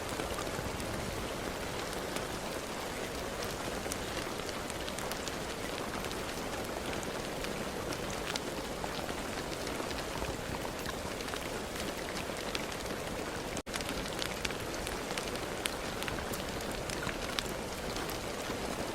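Steady rain falling, with a constant hiss and many individual drops ticking on a surface. The sound cuts out for an instant about two-thirds of the way through.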